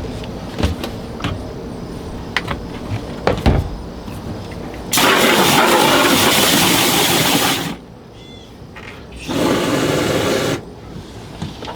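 Water spraying from a hose nozzle into a boat's bilge in two bursts that switch on and off abruptly: one nearly three seconds long about five seconds in, a shorter one of just over a second near the end. Before the spraying, scattered light knocks and clicks from scrubbing with a brush.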